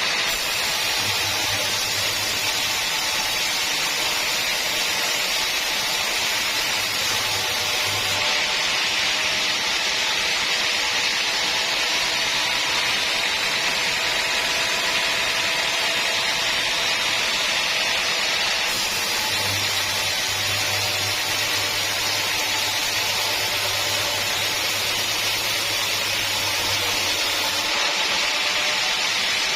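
Sawmill saw running steadily through a teak log, a continuous loud hiss with a faint machine hum underneath.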